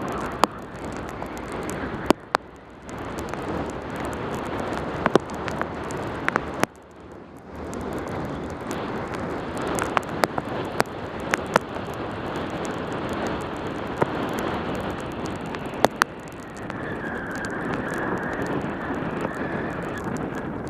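Wind rushing over a helmet camera's microphone on a fast bicycle descent in pouring rain, mixed with the hiss of tyres on the wet road. Sharp clicks and knocks come through it at irregular moments, and the rush drops away briefly twice.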